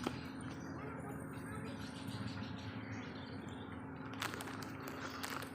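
Outdoor ambience of an animal park: small birds chirping faintly over a murmur of distant voices and a steady low hum, with a few sharp clicks about four seconds in.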